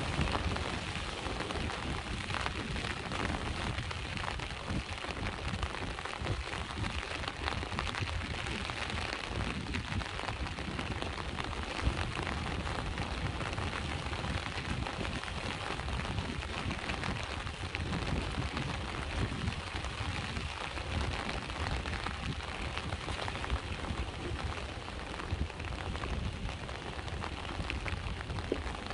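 Steady rain falling, a dense pattering of many drops, over a constant low rumble of sea waves.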